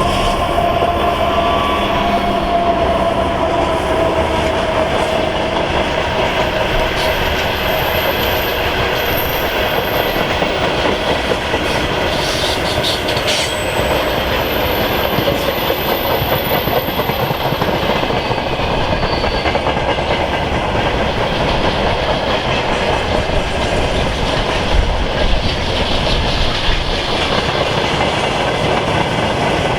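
Freight train rolling past at close range, its wagon wheels clattering steadily over the rail joints.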